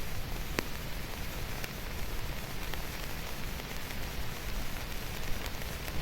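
Steady rain falling, an even hiss with a few separate sharp drop ticks standing out, about half a second in and again around two and three seconds.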